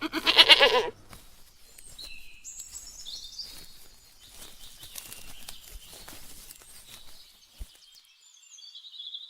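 A sheep bleats once, loudly, in the first second. After that, birds chirp faintly in short high calls over a quiet outdoor background.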